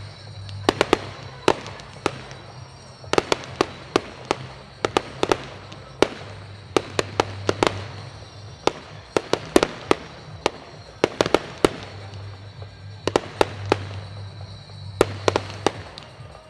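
Aerial firework shells bursting: many sharp bangs at an irregular pace, often in quick clusters of several, with short gaps between them.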